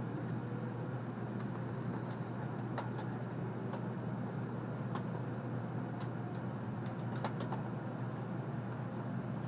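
Cabin noise inside an N700 series Shinkansen pulling out of a station: a steady low rumble, with a few faint clicks.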